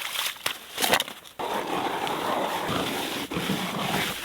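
A few sharp knocks, then about three seconds of steady scraping and grinding on ice and snow while an ice-fishing hole is being reopened.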